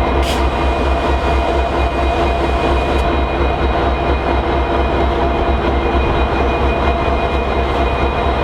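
A train running past, a steady loud rumble with several steady pitched tones held over it throughout.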